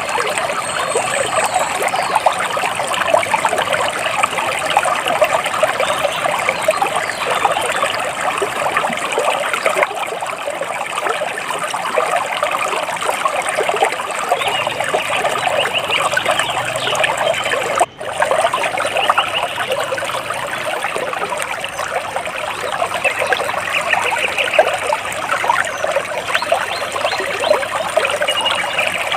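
Water splashing and trickling in a steady, continuous stream, with a few faint bird chirps now and then. The sound cuts out for an instant about eighteen seconds in.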